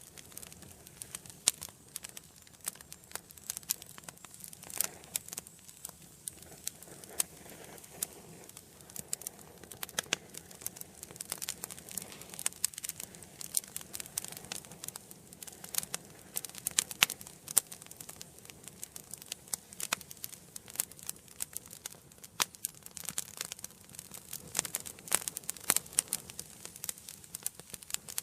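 Wood fire burning in a fireplace: irregular sharp crackles and pops over a soft steady hiss of flames.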